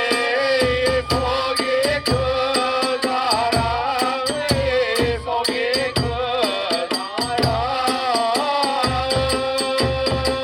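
Kagura hayashi festival music: a bamboo flute plays a wavering, bending melody over fast, steady drum beats and the clash of small hand cymbals.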